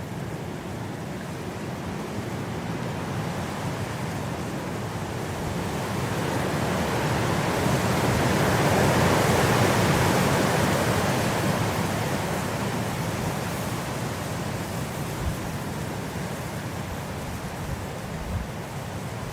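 Blizzard wind blowing as a steady rush of noise that swells into a strong gust about halfway through, then eases off.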